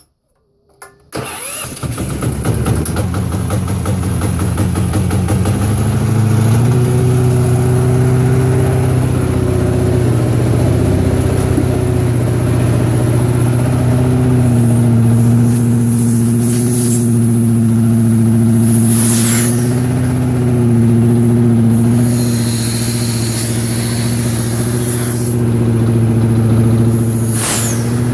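Harbor Freight Predator gasoline engine cold-starting with the choke on: it catches about a second in, runs up unevenly, then settles into a steady run.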